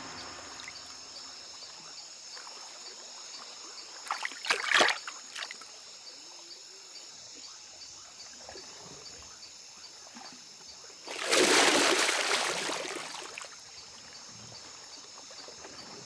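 Steady night chorus of insects with faint regular ticking, broken by water splashes: a short one about four and a half seconds in and a louder, longer one about eleven seconds in that fades over a couple of seconds.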